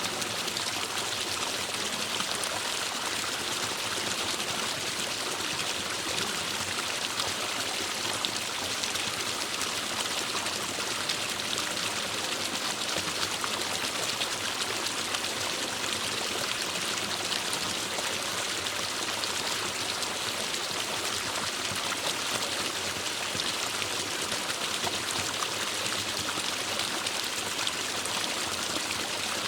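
Forest stream rushing and splashing steadily over rocks, a continuous hiss of moving water.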